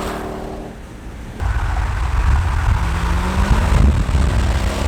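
Mercedes CLK500's V8 through a newly fitted performance exhaust, running loud and deep. It eases off briefly, then comes back hard about a second and a half in, with the pitch climbing as it revs up around three seconds in.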